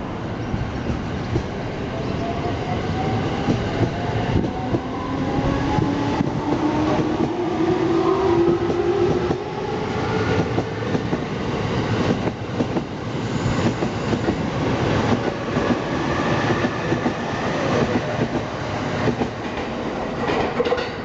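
JR East E231-0 series electric commuter train pulling out and accelerating. Its VVVF inverter and traction motors whine, rising in pitch over several seconds, then the wheels clatter over the rail joints as the cars pass.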